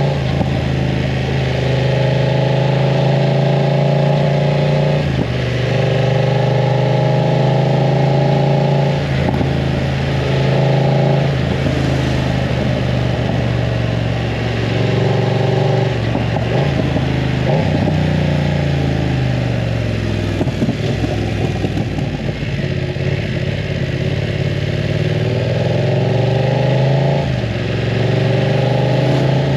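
BMW F900 R parallel-twin motorcycle engine running through a full exhaust system while riding. It pulls up through the gears with a short break at each shift for the first dozen seconds, the revs fall away for several seconds in the middle as the bike slows, and then it accelerates again.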